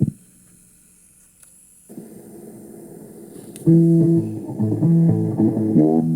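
Music: after a click and a quiet stretch, plucked guitar and bass notes come in loudly about four seconds in.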